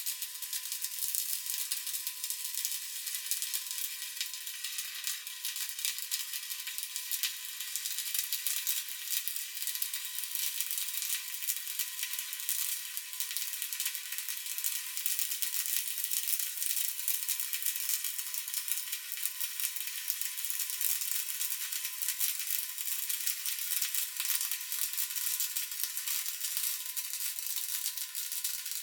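Stick-welding arc crackling and sizzling steadily as a bead is run on steel plate, with a faint steady hum underneath.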